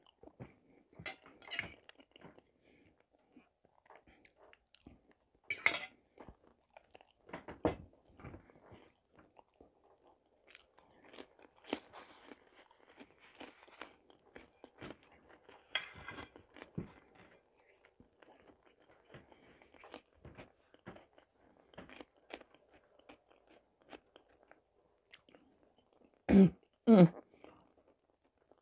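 A person chewing a mouthful of food close to a lapel microphone: wet mouth clicks and smacks scattered throughout, with a brief louder throat sound near the end.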